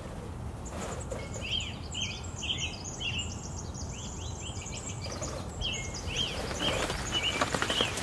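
Small birds chirping in quick, repeated short calls, starting about a second in, over a steady low outdoor rumble.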